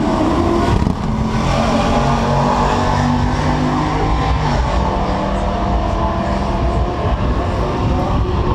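Car engine running loudly, its pitch shifting up and down a few times, over general racing-event noise.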